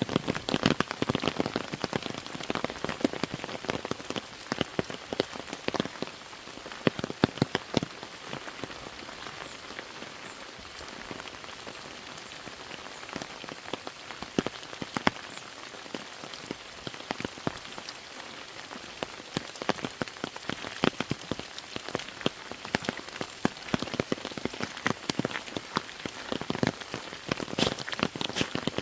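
Steady rain falling, with many large drops hitting close by as sharp ticks over the hiss of the rain. The close drops come thick near the start and end and thin out through the middle stretch.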